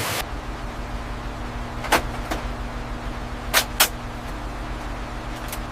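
Steady low machine hum of a workshop, broken by a handful of short sharp clicks or taps. The loudest two come close together past the middle.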